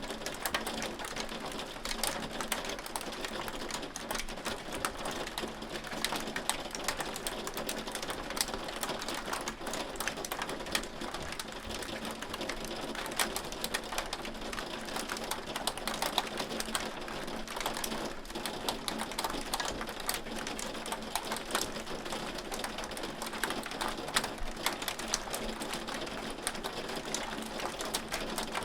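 Hail falling in a steady, dense patter of countless small clicks, with louder single strikes here and there.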